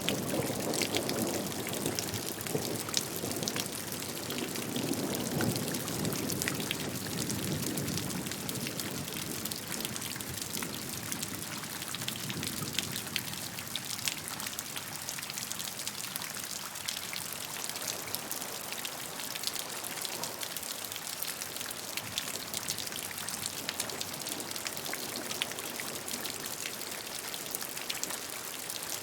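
Steady rainfall with dense drop patter on a surface, and a low rumble under it that fades out about halfway through.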